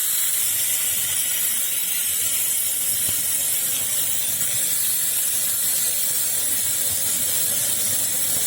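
Steady, even hiss of a hard stream of forced air blown onto a barbecue fire to fan it up quickly.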